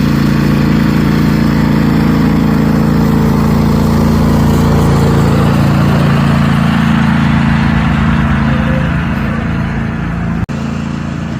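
Small engine of a kiddie train running steadily at a low, even speed. It is close by and loud, with a brief break near the end.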